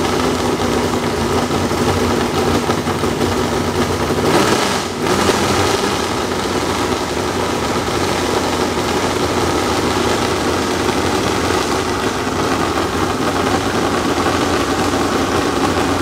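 Freshly built 5.9 Magnum V8 running steadily on an engine run-in stand during its first break-in run. Its note shifts briefly about four seconds in.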